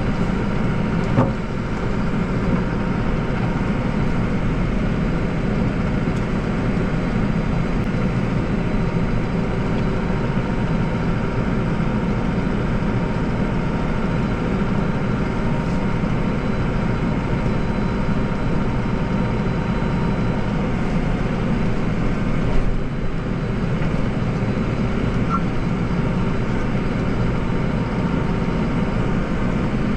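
Deutz-Fahr tractor engine running steadily under load with its snowblower, with a couple of brief knocks, one about a second in and one near 23 seconds.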